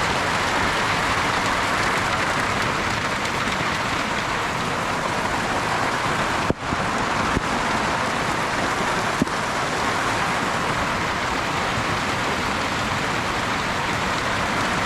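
Steady rain falling, an even hiss, with a short dropout and click about halfway through and a couple of faint clicks soon after.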